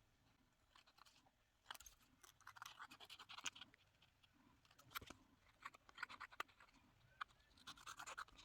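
Paper being trimmed: faint, irregular scratchy snips and rustles in two clusters, the second starting about five seconds in.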